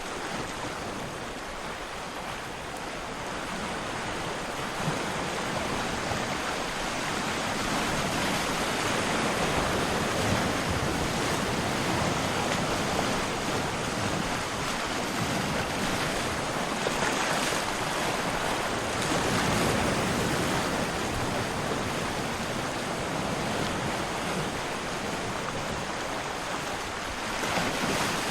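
Steady rushing water, a continuous wash of noise that swells and eases gently every few seconds.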